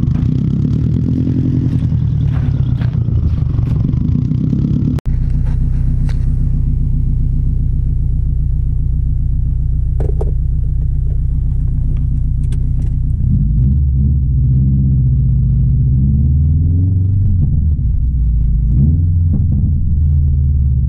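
Subaru WRX STI's turbocharged 2.5-litre flat-four engine heard on the move: a deep, steady drone with a brief dropout about five seconds in. In the second half the engine note rises and falls a few times with throttle changes.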